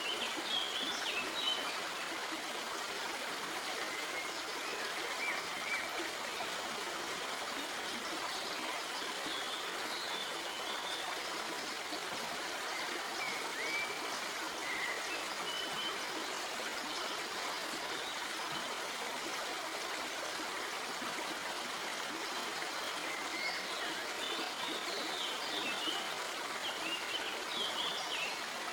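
A stream flowing and trickling over rocks in a steady, even rush. Faint, brief bird chirps come through now and then.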